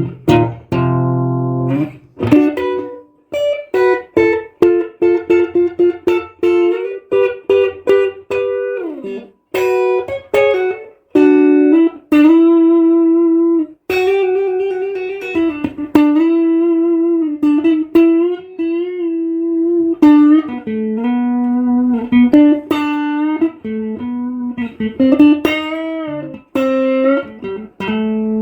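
1976 ash-body Stratocaster-style electric guitar playing a slow melodic line: a few chords at the start, then single sustained notes with vibrato.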